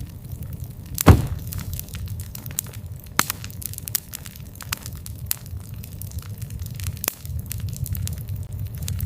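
Wood fire burning with a low steady rumble and frequent sharp crackles and pops, one loud pop about a second in.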